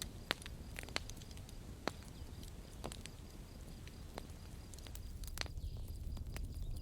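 Campfire crackling: irregular sharp pops, roughly one a second, over a steady low rumble.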